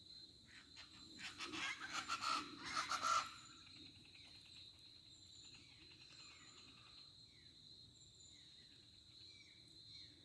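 Birds calling over a steady high-pitched insect drone: a loud run of rapid calls about a second in that lasts two seconds or so, then scattered short falling chirps.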